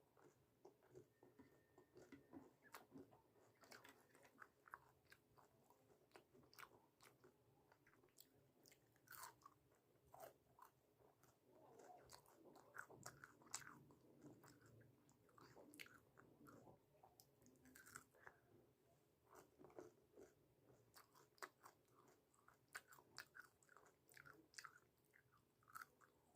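A person chewing and biting into food, faint, with many small crunches and wet mouth clicks coming irregularly throughout.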